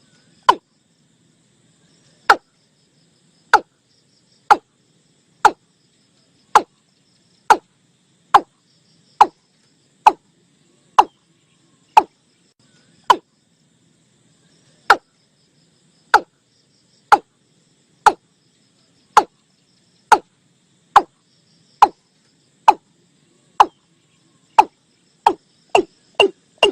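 Watercock calling: a series of short, hollow notes, about one a second, that quickens near the end into a rapid run.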